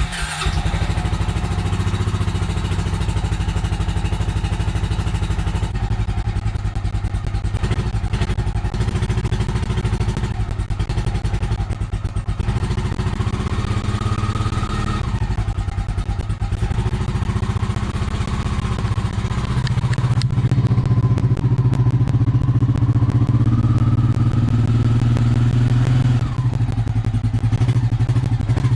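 2000 Honda Rancher ES ATV's single-cylinder four-stroke engine running just after a cold start in below-freezing weather, idling somewhat unevenly. The idle changes pitch about six seconds in and gets louder about twenty seconds in.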